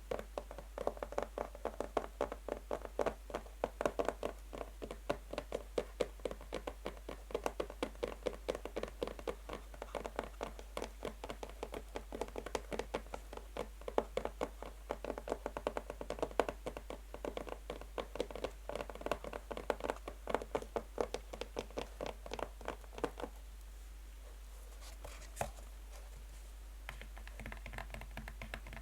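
Fast fingernail tapping on a box with natural nails, many quick taps a second, stopping about 23 seconds in. After a short pause with one click, softer quick tapping starts near the end.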